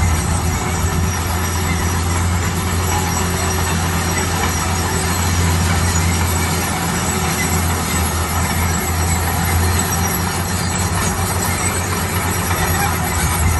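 Heavy road-construction machine's diesel engine running steadily under load, a constant low hum with steady mechanical noise over it.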